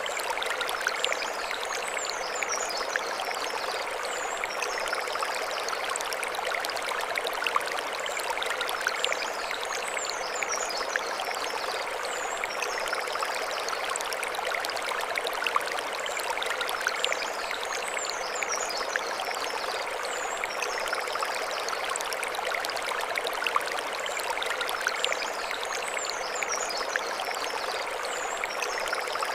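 Mountain stream running over stones: a steady, even rush of water. A high bird phrase of quick chirps recurs about every eight seconds.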